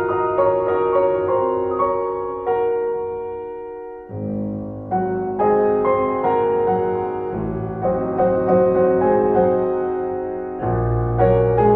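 Background piano music: slow chords and melody notes, each struck and left to ring, with a bass line coming in partway through.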